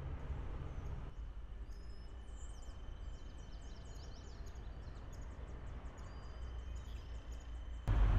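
Small birds chirping, many short high calls in quick succession, over a low steady background rumble. Just before the end a louder rush of noise cuts in suddenly.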